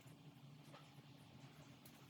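Near silence: a faint steady low hum of room tone with a couple of faint ticks.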